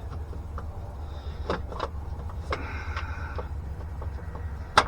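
Light clicks and taps of a transfer case actuator motor and its parts being handled and fitted by hand, with a brief scraping squeak around the middle and one sharp click just before the end, over a steady low hum.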